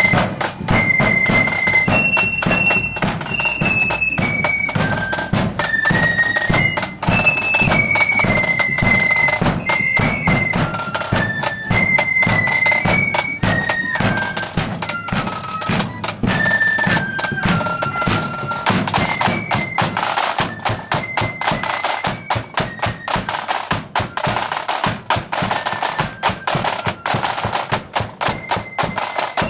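A flute-and-drum marching band playing a tune: high flutes carry the melody over a steady beat of snare and bass drums. In the second half the melody thins out and the drums carry on alone.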